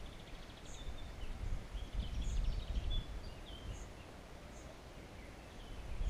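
Birds calling, with short chirps and trills mostly in the first half and a few brief high squeaks scattered through, over a steady low rumble.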